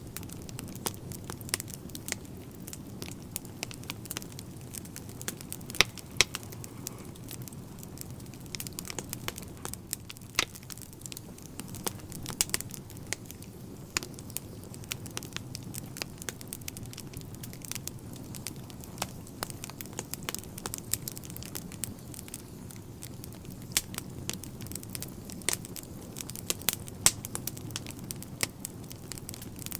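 Wood fire burning in a fireplace: a steady low rumble of the flames with irregular crackles and pops of burning logs, a few sharper pops standing out.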